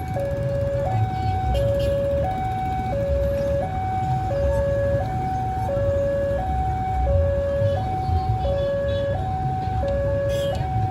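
Railway level-crossing warning alarm sounding a steady two-tone signal that alternates between a higher and a lower pitch about every 0.7 s, warning of an approaching train. A low rumble runs beneath it.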